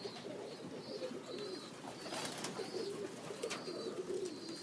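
Domestic pigeons cooing in a low, warbling murmur, with a thin high chirp repeating every half second or so.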